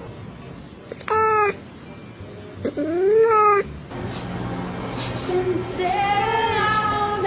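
A cat meows twice, once about a second in and again, longer, near three seconds. Background music comes in at about four seconds.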